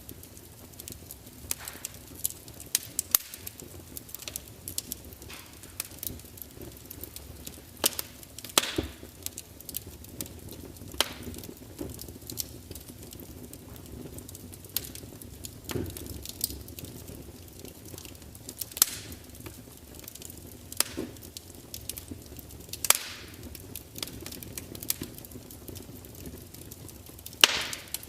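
Wood fire of burning logs in a large open fireplace, crackling and spitting, with irregular sharp pops over a low steady hiss; the loudest pop comes near the end.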